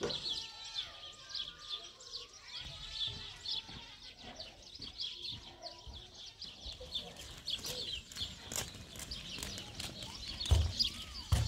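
Birds chirping and twittering, many short high calls, with a couple of low thumps near the end.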